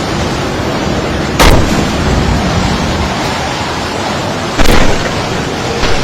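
Storm-force wind rushing steadily, with heavy gusts buffeting the microphone in two sudden loud blasts, about a second and a half in and again about four and a half seconds in.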